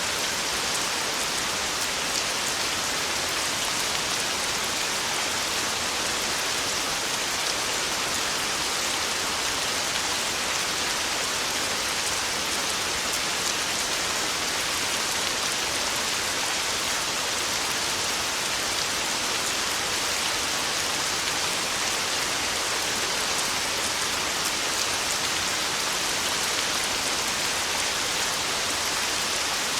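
Heavy, steady rain drumming on a tin roof: a dense, even hiss of drops with no rise or fall.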